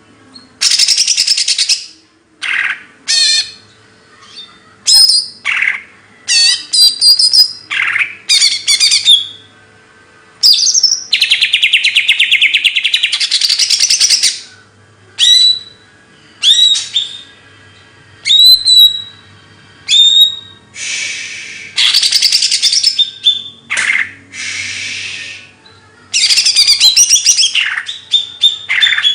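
A songbird singing loud, varied phrases: long rapid buzzy trills lasting a few seconds each, alternating with short sharp upslurred whistles, separated by brief pauses.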